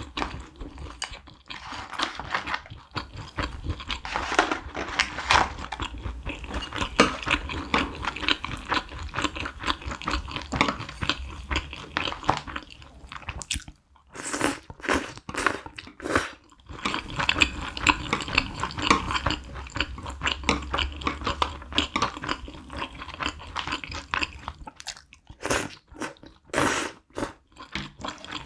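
Close-miked chewing of a mouthful of spicy stir-fried instant noodles (Buldak fire chicken noodles mixed with mi goreng), wet and steady. Near the end come a few sharp clicks as the wooden spoon and chopsticks stir the noodles in the tray.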